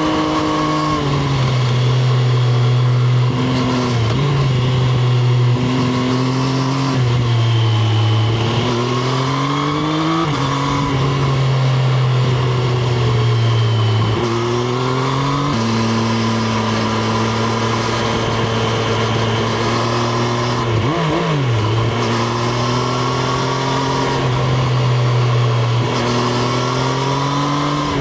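Triumph Street Triple RS's 765 cc inline three-cylinder engine accelerating under load, its pitch climbing and then dropping sharply at each gear change, several times over. About three quarters of the way through it gives a quick blip up and back down.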